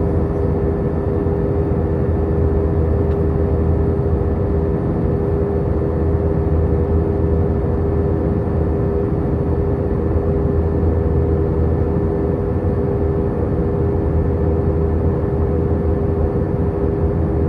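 Steady cabin noise inside an Airbus A319 airliner in flight: engines and airflow make a constant low drone with a steady hum running through it.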